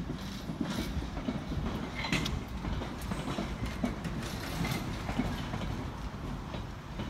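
London Underground Bakerloo line 1972 Stock train running past, a steady rumble with its wheels clacking over rail joints.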